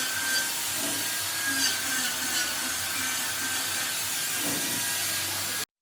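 A handheld power tool running steadily on wood, with a high, even noise that cuts off suddenly near the end.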